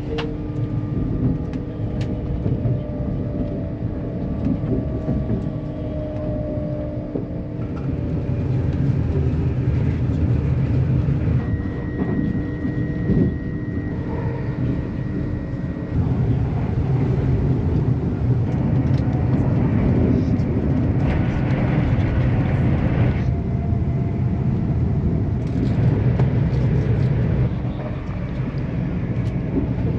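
Train running at speed: a steady rumble with a low hum, the sound changing abruptly several times as if from separate clips.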